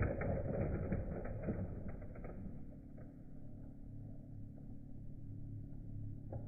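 WPL D12 radio-controlled drift truck driving on loose dirt, its sound fading over the first few seconds and leaving a faint steady low hum.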